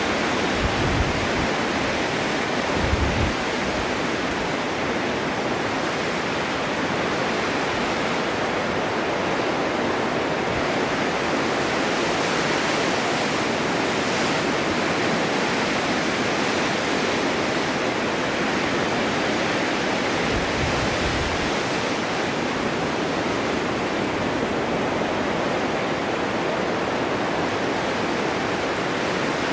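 Snowstorm wind blowing steadily, an even rushing hiss, with brief low rumbles of gusts about one and three seconds in and again around twenty-one seconds.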